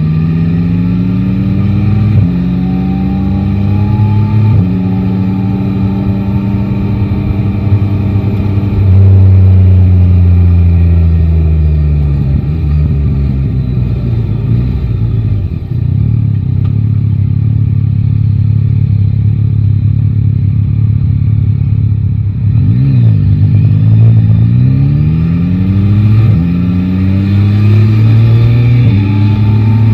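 Yamaha Tracer 9 GT's three-cylinder engine under way: it pulls up through the gears, then the revs fall away as the bike slows and it runs at low revs. From about two-thirds of the way through it accelerates hard again, with quick upshifts.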